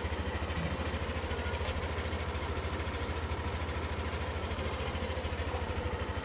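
Yamaha NMAX scooter's single-cylinder engine idling steadily after a start through a new pull-down starter switch.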